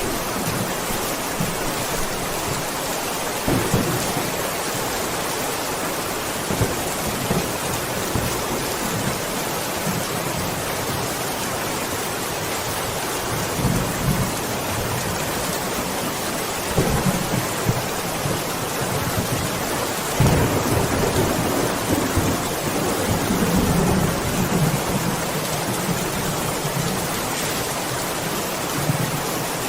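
Steady heavy rain with rolls of thunder: short low rumbles about 4 and 14 seconds in, and a longer rolling peal from about 20 to 25 seconds in.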